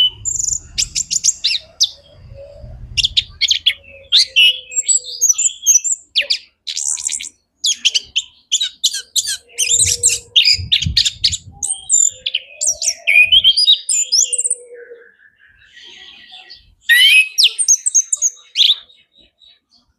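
Male orange-headed thrush singing a long, loud, varied song of rapid whistled and chattering phrases, full of mimicked notes, with a short break about three-quarters of the way through.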